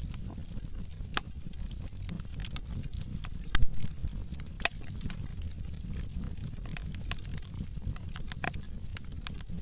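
Wood fire in a fireplace crackling, with irregular sharp pops and snaps over a steady low rumble of the flames; a loud cluster of pops comes about three and a half seconds in.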